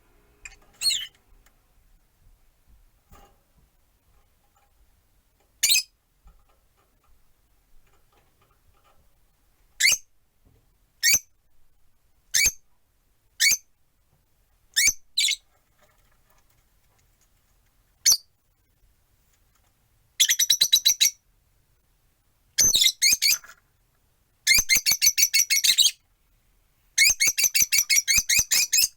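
Peach-faced lovebirds calling: single sharp, high chirps every second or so, then from about 20 seconds in, rapid chattering runs of chirps in bursts of a second or more.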